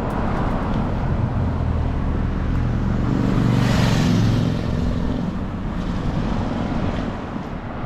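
Car engine and road noise from a vehicle on the move, a steady low hum that swells louder about halfway through.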